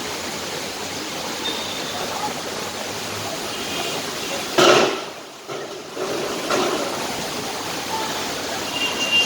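Rushing floodwater, a steady roar of flowing water, with a short loud splash-like burst a little before halfway.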